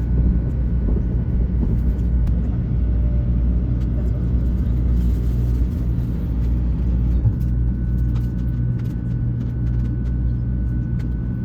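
Steady low rumble of a Shinkansen bullet train running at speed, heard from inside the passenger car, with a constant low hum and a faint high steady tone.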